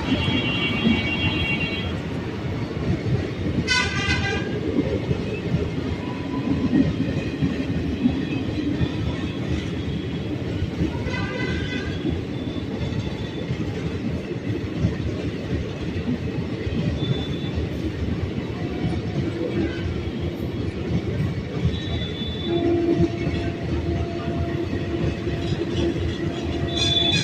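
Express train running into a station with the steady rumble of its wheels and carriages. It sounds short horn blasts several times: at the start, about 4 and 11 seconds in, and again at the end.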